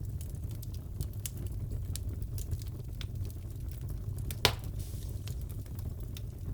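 Wood fire crackling in a fireplace: a steady low rumble with scattered small crackles, and one sharp pop about four and a half seconds in.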